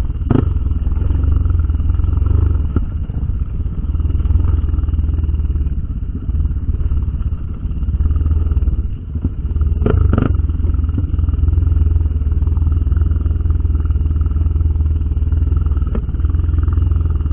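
Trail motorcycle running while being ridden, heavily buffeted by wind rumble on the microphone, with a sharp knock just after the start and a quick pair of knocks about ten seconds in.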